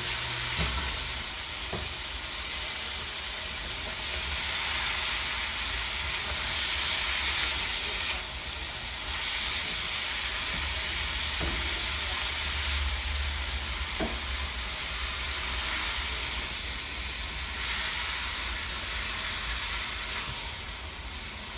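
Shrimp and vegetables sizzling in a hot wok as they are stirred with a spatula, a steady frying hiss with a few light clicks of the spatula against the pan.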